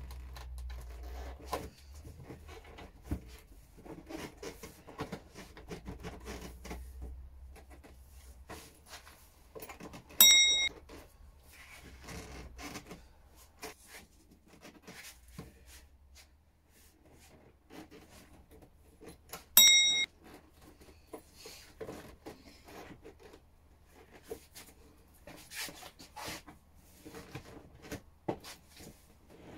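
Handling noise of gloved hands working a motorcycle seat and its key lock: rubbing, small clicks and knocks. Two short, high beeps, the loudest sounds, come about ten and twenty seconds in.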